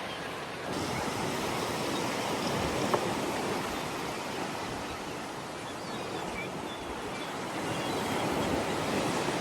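Steady rushing of sea surf and wind, with a single short click about three seconds in.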